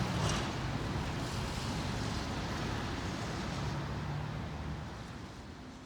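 Steady outdoor rumble and hiss of wind on the microphone, with a faint low engine-like hum, fading out near the end.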